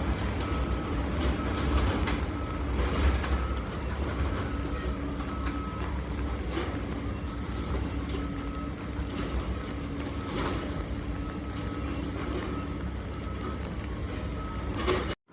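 New York City Subway L train at the station: a steady low rumble with a faint on-and-off whine. It breaks off abruptly just before the end.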